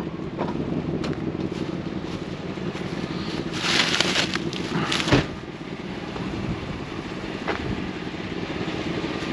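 A vehicle engine running steadily with a low hum. Two short bursts of rustling, crunching noise come about four and five seconds in.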